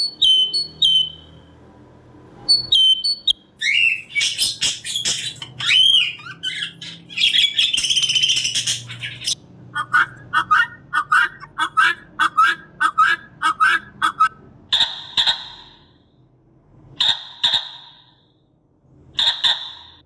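A string of recorded bird calls playing one after another: a great tit's short whistled notes, then a budgerigar's chattering warble, then a guineafowl's fast run of harsh repeated calls, about four a second. Three separate harsh calls follow near the end.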